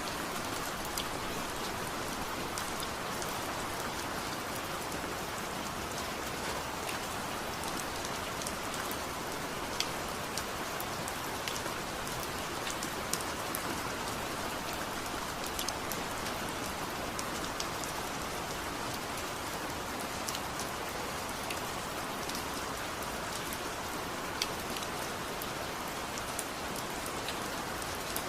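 Steady rain falling, an even hiss with scattered sharp taps of single drops striking a surface.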